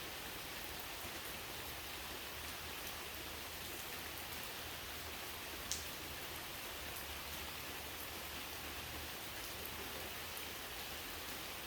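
Steady rain falling, with scattered faint drip ticks and one sharper tick about halfway through.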